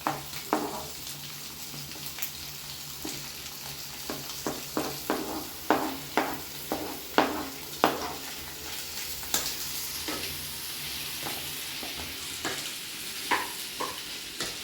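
Chopped vegetables frying in butter on a nonstick tawa, sizzling steadily, while a utensil stirs them and knocks and scrapes against the pan many times.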